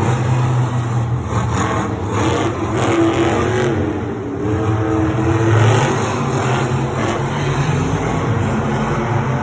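Monster truck engines running loud and revving in a stadium, a steady deep drone with the pitch rising and falling.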